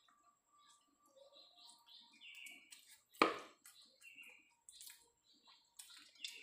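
Faint chewing and mouth sounds of a person eating tempe and shredded chicken with rice by hand, with one sharp smack about three seconds in and a few faint high chirps.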